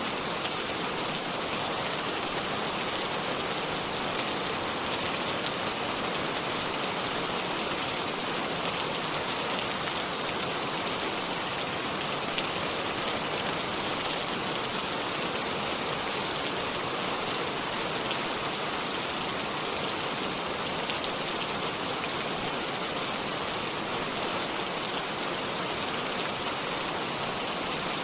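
Steady rainfall, drops pattering on leaves and surfaces in an even hiss with fine crackling ticks, strongest in the higher range.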